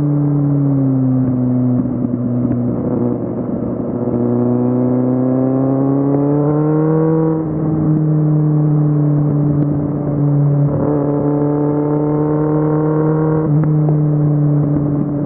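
Kawasaki Z750's inline-four engine on the move. The revs dip in the first second or so, then climb steadily from about four seconds in and drop sharply near the middle, like a gear change. After that the engine runs fairly steady, with a brief change about eleven seconds in.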